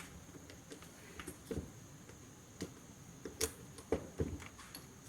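Scattered light clicks and small knocks of hand tools and metal parts being handled, sparse at first and coming more often in the last two seconds.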